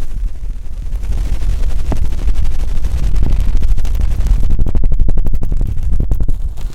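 ASMR ear massage: fingers rubbing directly on a microphone's ears, close and loud with a deep rumble. Over the last two seconds it turns into fast crackling clicks, then stops suddenly.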